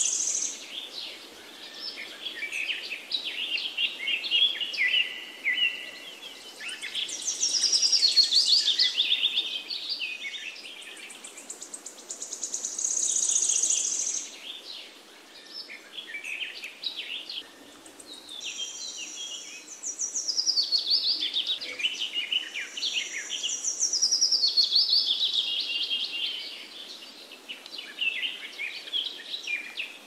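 Songbirds singing: dense, overlapping chirps and rapid trills in loud phrases every few seconds, some runs falling in pitch.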